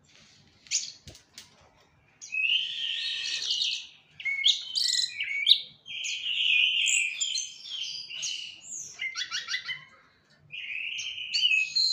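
A songbird singing varied phrases of quick chirps and whistles, with short pauses between phrases.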